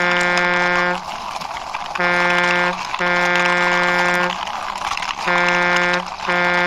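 Vehicle horn honking in a repeated pattern: a short toot then a longer one, about every three seconds, over a steady hiss.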